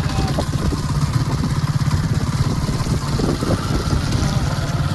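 A small engine running steadily at an even speed, a low rumble with rapid, even pulses.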